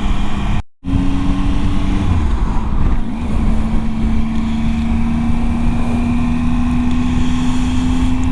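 Motorcycle engine running on the move with wind rush, its note dropping about two seconds in as the throttle eases, then holding and slowly rising as the bike pulls along. The sound cuts out completely for a moment under a second in.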